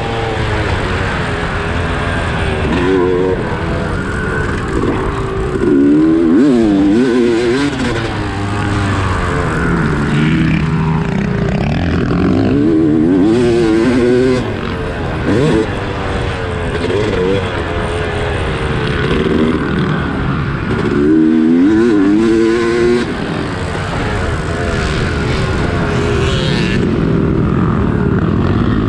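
Dirt bike engine being ridden hard, its pitch climbing and dropping again and again with throttle and gear changes.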